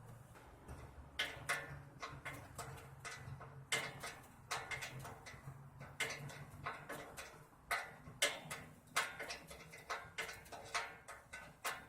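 Irregular sharp clicks and taps, coming in quick clusters, over a low steady hum: hands and tools working on metal parts of an air-conditioning condenser during the motor replacement.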